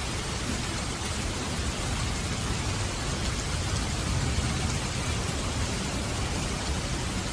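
Steady heavy rain falling, with a low rumble of distant thunder that swells in the middle.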